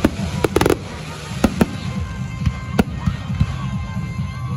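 Aerial fireworks bursting: a quick run of sharp bangs and crackles in the first second, then single bangs about one and a half and three seconds in, over a steady low rumble.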